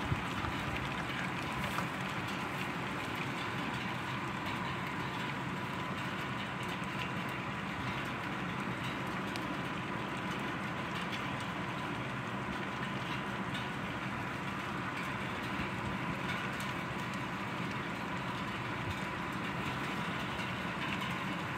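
Heavy thunderstorm rain falling steadily: an even hiss of drops with many small ticks of drops striking surfaces.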